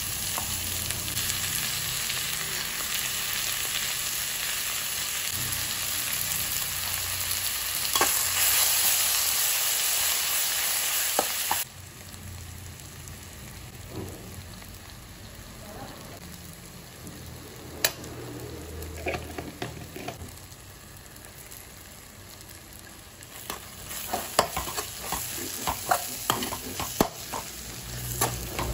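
Onions and tomatoes sizzling in hot oil in a non-stick wok, a loud steady hiss that drops suddenly to a much quieter sizzle after about eleven seconds. After that, metal utensils scrape and clink against the pan as the masala is stirred, with a quick run of clicks near the end.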